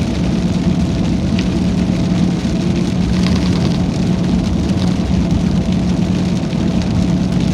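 Steady engine and road noise heard inside a moving truck's cab, a constant low hum under an even rushing noise.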